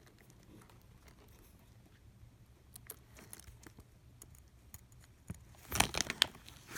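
Small clicks and taps of hand tools and parts against an iPad's frame during a screen repair. They are faint and scattered at first, then a quick run of louder clicks and scrapes comes about five and a half seconds in.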